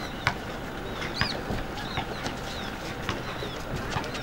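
Birds chirping in short, high, curving calls, with a few sharp clicks scattered among them.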